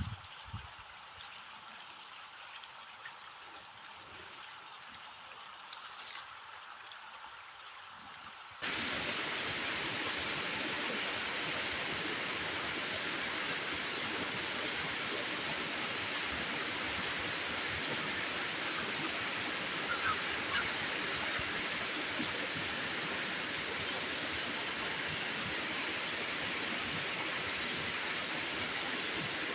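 A steady rush of water noise. A fairly quiet hiss with a couple of small clicks cuts suddenly, about eight seconds in, to a much louder, even downpour-like rushing that holds steady.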